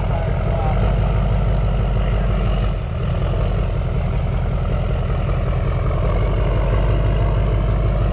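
A pickup truck on the move, a steady low rumble of engine and road noise with a brief dip about three seconds in.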